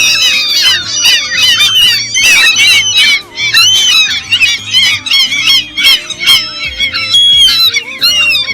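Many gulls calling at once: a dense, overlapping chorus of rising and falling cries.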